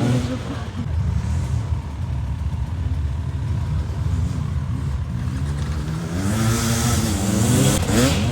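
Off-road motorcycle engine running and revving, its pitch rising and falling, with the loudest revs near the end.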